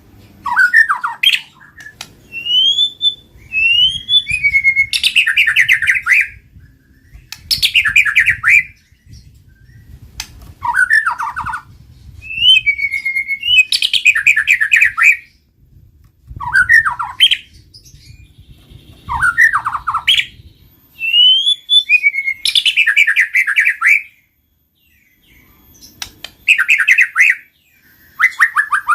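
White-rumped shama (murai batu) in full song: repeated loud phrases every couple of seconds, each a quick rising whistle running into a fast rattling trill, separated by short pauses.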